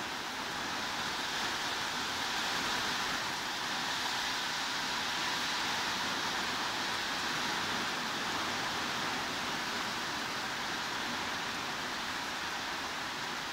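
Steady hiss of heavy rain, even and unbroken, with no single drops or splashes standing out.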